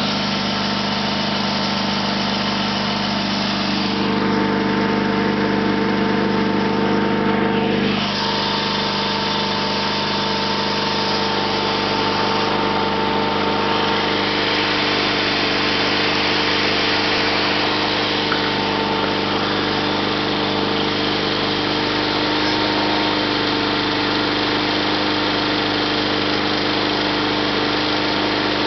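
Sears SS/16 garden tractor's 16 hp Onan opposed-twin engine running steadily, its note changing about eight seconds in.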